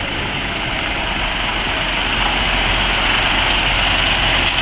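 Heavy log truck's diesel engine running steadily, growing a little louder about two seconds in.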